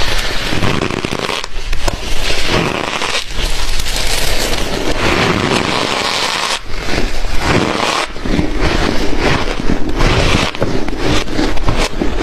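Close-miked crunching of dry, frosty ice being bitten and chewed in big mouthfuls: a dense, loud crackle packed with sharp cracks.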